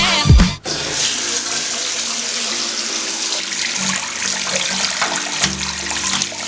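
Water running hard from a bathtub tap into the tub, a steady rushing hiss. A hip-hop music track cuts off abruptly just after the start.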